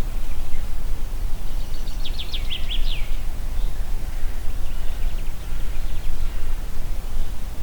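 Wind blowing through forest trees as a steady noise with a deep rumble, and a songbird singing a quick run of about six falling notes about two seconds in, then a fainter repeated phrase around five seconds.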